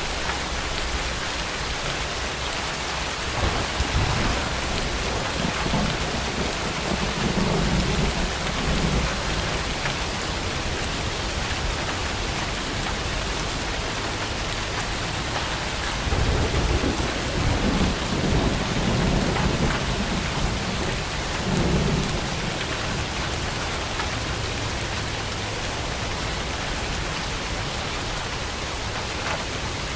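Heavy rain pouring steadily, with two long rolls of thunder rumbling, one starting a few seconds in and one just past the middle.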